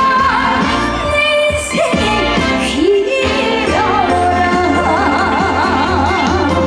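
Woman singing a Korean trot song live with a band. Her voice slides between notes and wavers in wide vibrato, over a steady bass line.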